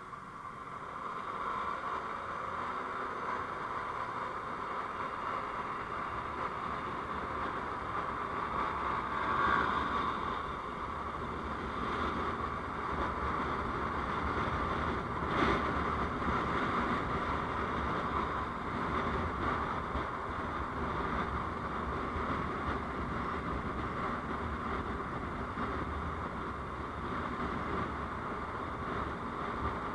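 Steady road and wind noise of a vehicle in motion, picked up by a dashcam. It grows louder over the first two seconds, and there is a single short knock about halfway through.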